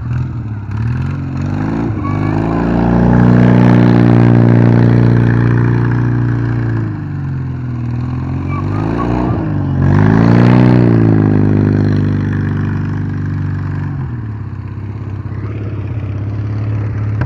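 Ural M72 motorcycle's side-valve flat-twin engine running on the move, revving up and easing off several times as it pulls through the gears, then holding a steady lower note near the end.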